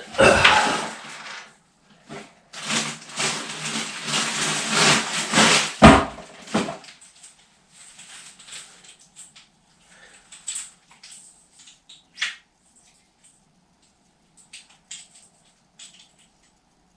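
Shower hose and parts being unwrapped and handled. There is loud rustling for about a second, then a longer stretch of rustling with a sharp knock about six seconds in, then faint clicks and taps as the fittings are turned over.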